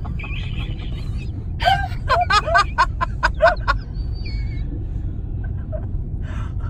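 Steady low rumble of a long freight train rolling slowly past a railroad crossing, heard from inside a waiting car. A short burst of laughter comes about two seconds in.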